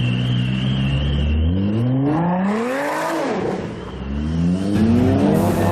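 A supercar engine idling, then revved twice. Each rev climbs in pitch for a second or two and drops back sharply.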